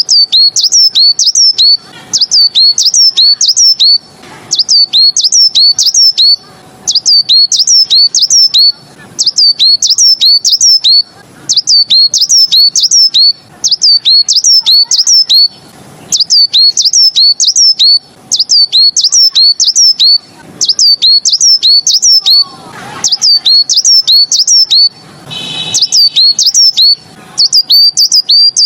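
Song of the songbird that Chinese bird keepers call 'beizi', in its Tieling-style 'taokou' song: rapid runs of high, sharp notes, each dropping in pitch, in phrases of about two seconds with short breaks between them, repeated over and over. One phrase near the end holds a harsher, buzzier note.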